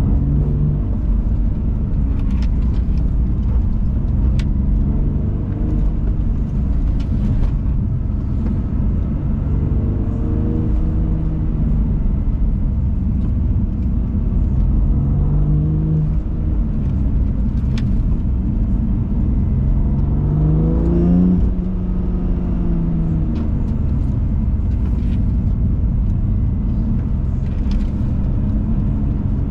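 BMW M2 Competition's twin-turbo straight-six driving hard, its engine note climbing and dropping again and again with acceleration and gear changes, with a clear rising rev about twenty seconds in, over a heavy steady road rumble.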